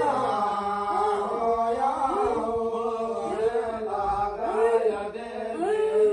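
Devotional chanting: voices repeating short phrases that rise and fall in pitch, about one or two a second, over a steady held tone.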